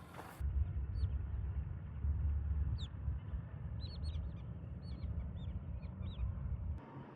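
About ten short bird chirps, each sliding down in pitch, over a strong, uneven low rumble.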